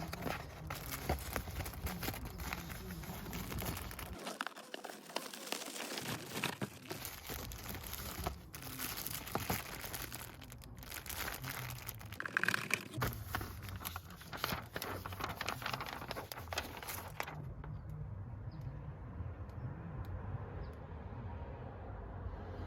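Crinkling and rustling as a cabin air filter is handled, in dense irregular crackles. About three quarters of the way through, the handling stops and only a low steady hum remains.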